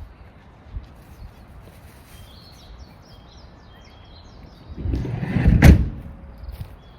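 Small birds chirping in the background, then about five seconds in a loud low rumble that ends in a single sharp thump.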